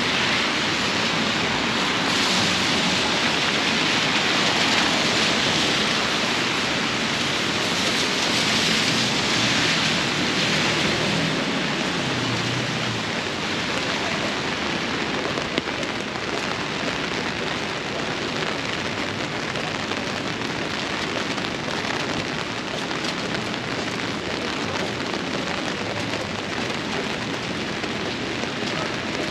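Downpour of rain, a steady dense hiss that eases slightly after about ten seconds.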